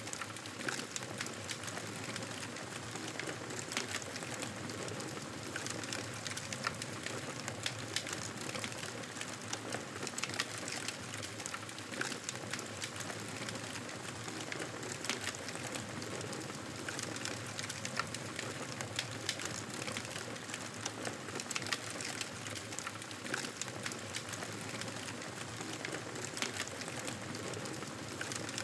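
Campfire burning with a steady hiss and frequent irregular crackles and pops.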